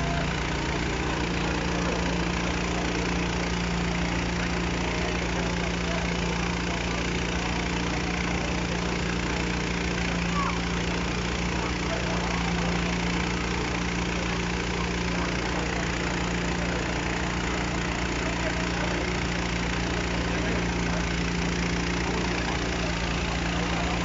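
An engine idling with a steady, unchanging hum, over a constant background hiss.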